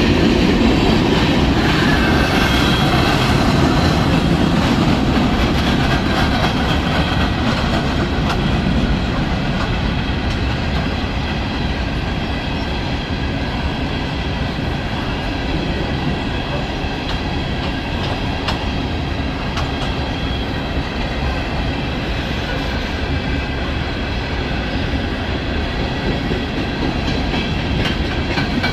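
Loaded CSX coal gondola cars rolling past close by: a steady rumble and clatter of wheels over the rail joints, with a thin, steady high-pitched wheel squeal running over it. The noise eases slightly after the first several seconds.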